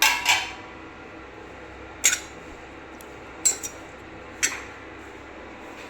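About six sharp clinks of kitchen utensils, two together at the start, then single ones or a close pair every second or so.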